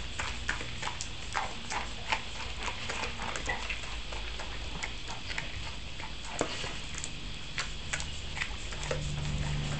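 A Labrador eating food scattered on the ground: irregular clicks and crunches as he picks up and chews the pieces, several a second.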